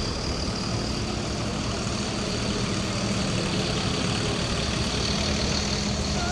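Steady street traffic noise with a constant low engine hum, as of a heavy vehicle idling close by.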